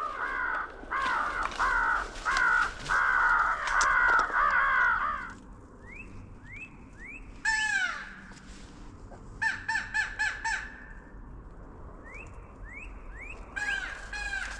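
Crows cawing in quick, repeated harsh calls, loud for about five seconds, then fainter bursts of caws with a few short rising chirps between.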